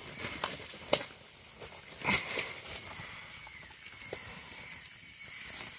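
Steady high-pitched insect chorus of a tropical rainforest, several shrill tones held together, with two sharp knocks about one and two seconds in.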